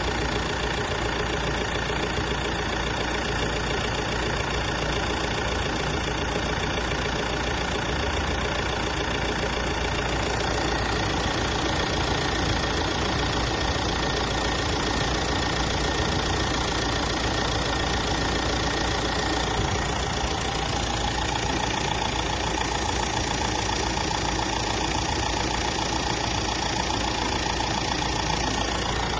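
MAN TGE engine running steadily at a constant speed, with a faint tone that rises slightly about twenty seconds in.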